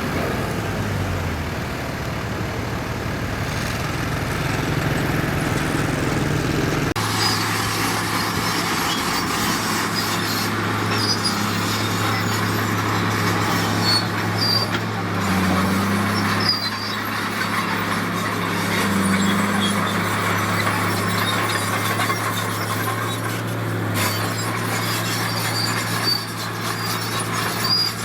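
Heavy diesel construction machinery running steadily, with scattered short high-pitched squeaks over it from about ten seconds in. The sound changes abruptly about seven seconds in.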